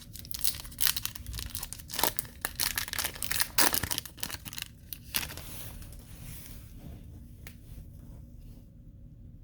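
A hockey card pack wrapper being torn open and crinkled in the hands, a dense crackling for about five seconds that then dies down to light handling.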